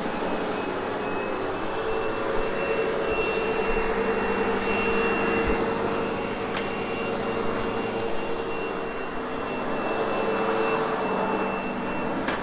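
Sebo X8 upright vacuum cleaner running over carpet: a steady motor hum and high whine over the rush of air.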